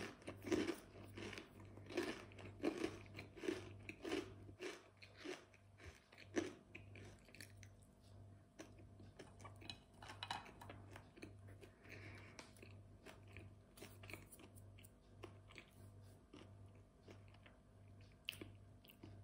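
Close chewing of crunchy ridged crisps, a regular crunch about every two-thirds of a second. The crunching is clearest in the first six seconds, then turns into softer, fainter chewing.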